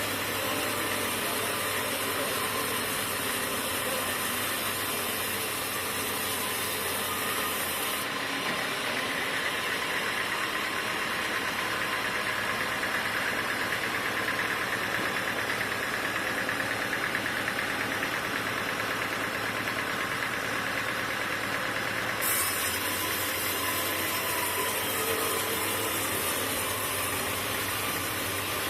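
Sawmill machinery running steadily, a dense continuous mechanical noise. About 8 seconds in the sound turns duller, with a stronger mid-pitched whine, and it brightens again near 22 seconds.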